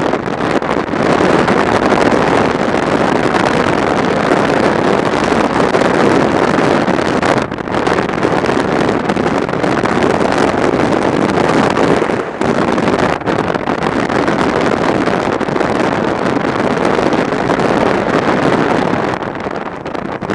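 Steady wind rush over the microphone and road noise from a motorcycle being ridden, dipping briefly twice, about seven and twelve seconds in.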